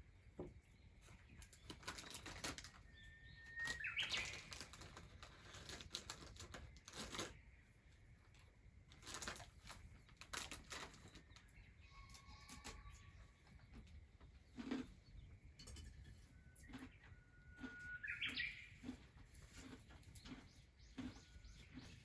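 A bird calls twice, each a held whistle that ends in a quick rising flourish, over faint scattered clicks and crackles.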